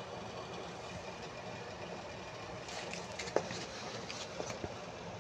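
MIG welding arc running steadily with its even frying crackle, with a few sharper pops and spatter crackles in the second half.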